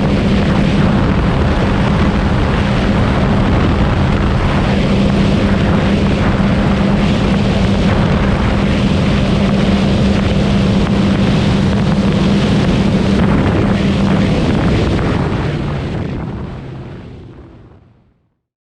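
Supercharged Sea-Doo RXP-X 300 personal watercraft running at a steady high speed, its engine holding one steady note under a loud rush of noise. The note drops away and the whole sound fades out over the last few seconds.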